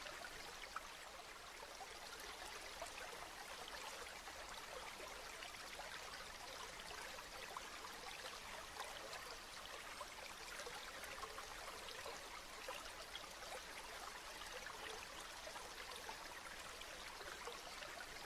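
Steady rain falling, a dense even hiss flecked with many small drop ticks.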